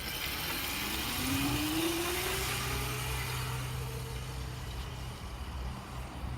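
Razor MX350 electric dirt bike's motor whining as it pulls away, its pitch rising over the first couple of seconds as it picks up speed and then holding steady, over a constant hiss.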